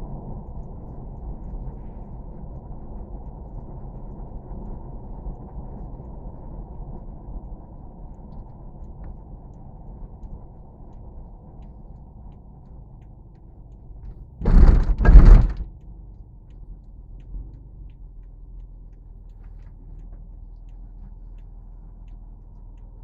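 Steady low rumble with two loud knocks about half a second apart, roughly two-thirds of the way through.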